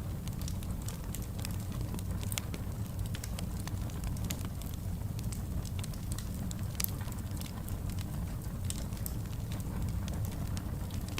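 Fire burning in a fireplace, crackling steadily with frequent sharp, irregular pops over a low, even rumble of the flames.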